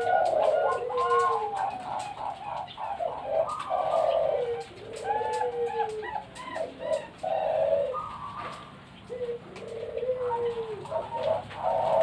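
Many zebra doves cooing at once, their overlapping short warbling coos running on without a break.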